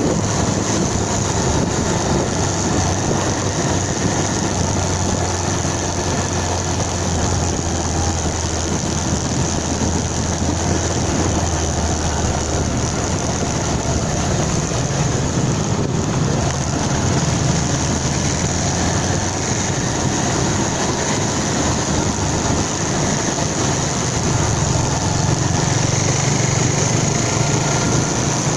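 Motorcycle engine running steadily while riding, over a constant rush of road and wind noise. The engine note climbs a little around the middle and again near the end.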